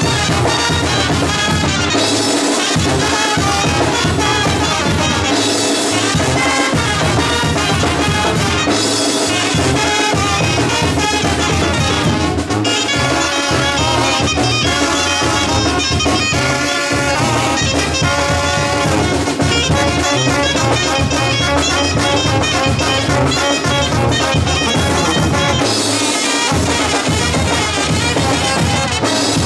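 Brass band music: trumpets and trombones over drums, playing continuously with a steady beat.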